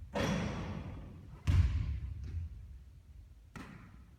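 Basketball striking hard surfaces on the court: four separate impacts, the loudest and heaviest about a second and a half in, each trailing off in the room.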